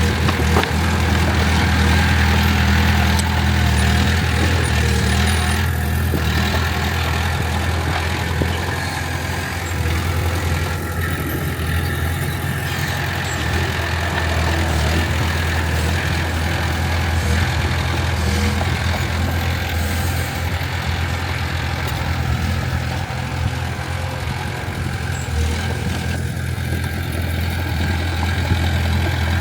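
Heavy diesel engine of earthmoving equipment running steadily, a low, even hum throughout.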